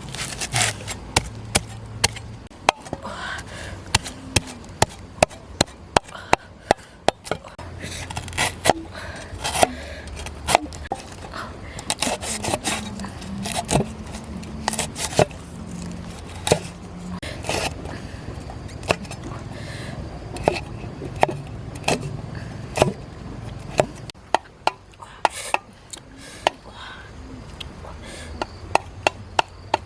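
Knife chopping on a wooden cutting board in irregular strokes, with a quicker, even run of chops near the end.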